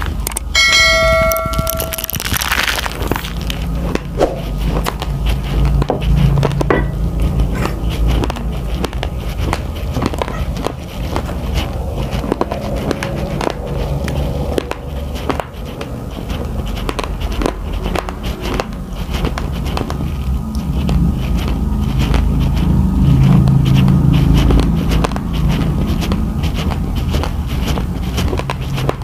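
Close-miked chewing of raw, uncooked rice grains: a dense run of sharp crackly crunches over a steady low hum. About a second in, a short bell-like chime from a subscribe-button animation sound effect.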